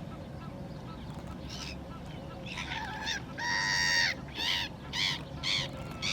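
Gulls calling: a few faint calls, then a longer drawn-out call about three and a half seconds in, followed by short harsh calls roughly every half second.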